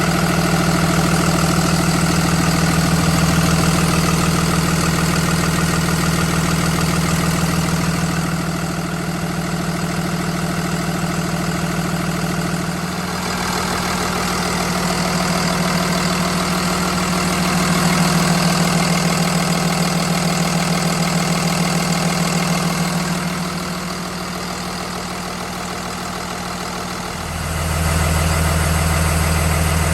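Cummins diesel engine of a Blue Bird Vision school bus idling steadily. Its loudness shifts a few times, and a deeper hum comes in near the end.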